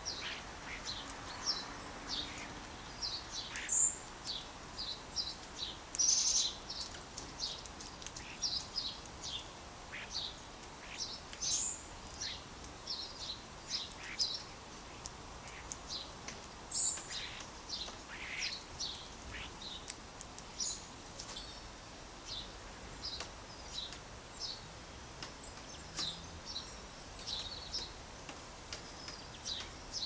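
Small songbirds chirping and calling: many short, high chirps and whistles, several a second, over a steady background hiss.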